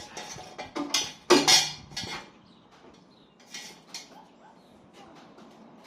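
Metal hand tools clinking and clanking during work on a car's rear suspension: a cluster of sharp metallic knocks in the first two seconds, then two lighter clicks a little later.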